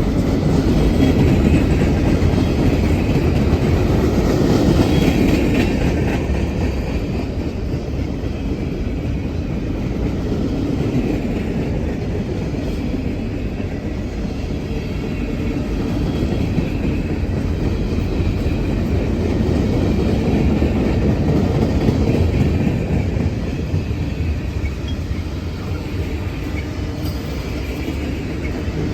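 Freight train cars rolling past, with steady rumble and clickety-clack of wheels over rail joints and a faint wheel squeal.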